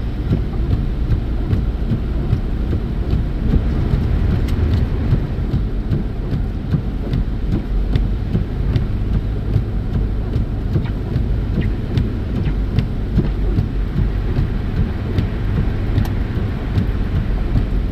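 Steady rumble of a car's tyres and engine heard from inside the cabin, driving at about 40 mph on a snowy road.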